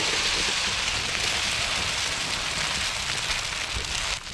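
Beaten ostrich-egg omelette mixture sizzling in hot oil in a large pan: a loud, steady hiss that eases slightly.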